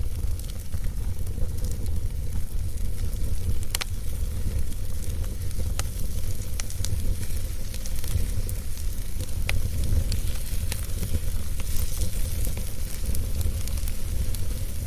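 Wood fire burning in a fireplace: a steady hiss and low rumble, with scattered sharp crackles and pops every few seconds.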